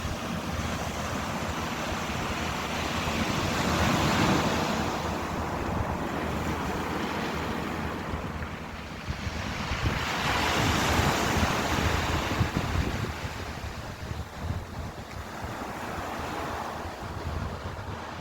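Ocean waves washing in and drawing back in slow surges: a swell about four seconds in, a bigger one around ten to twelve seconds, and a weaker one near the end.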